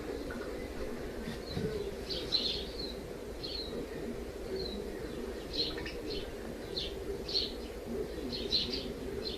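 Small birds chirping in short, high, irregular calls that begin about a second and a half in, over a steady low hum.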